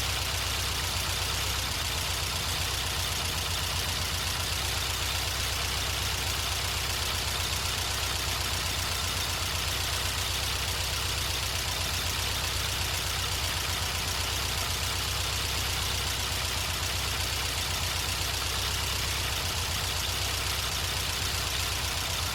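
Air-cooled 2.0 L VW Type 4 flat-four on dual Weber 40 IDF carburettors, idling steadily a little under 900 rpm.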